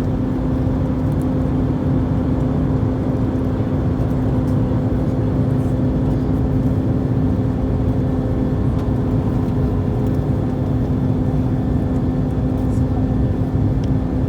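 Steady cabin drone of an Airbus A321-231 in flight, its IAE V2500 turbofans and airflow giving an even rumble with a steady low hum on top.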